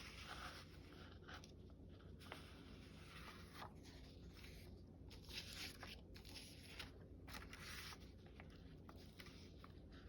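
Faint, intermittent rustling and scraping of paper being handled and shuffled.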